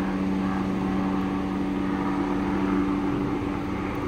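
Police helicopter hovering overhead, a steady drone with a constant two-note hum over a low rumble.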